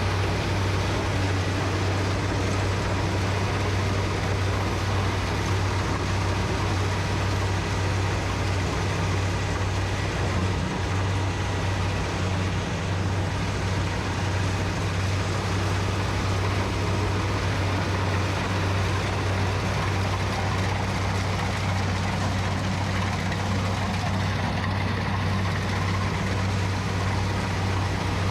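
Rice combine harvester's diesel engine running steadily at a constant speed, a deep even hum under the clatter of the machine.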